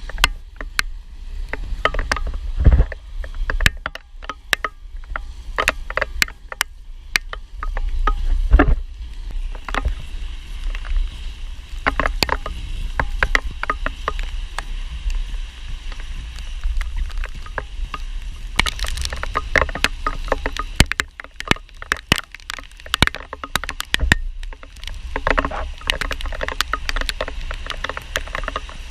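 Inline skates rolling over wet pavement: a steady wash of wheel and water noise broken by many sharp clicks and knocks, with wind rumbling on the microphone.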